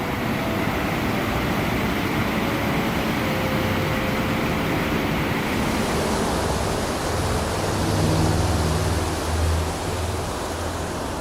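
Wind rushing over the microphone of a Yamaha FZ6 Fazer motorcycle on the move, with its inline-four engine running underneath.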